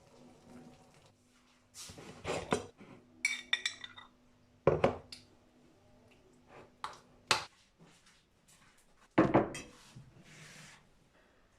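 A series of knocks and clatter from objects being handled, with a brief ringing metallic clink about three seconds in.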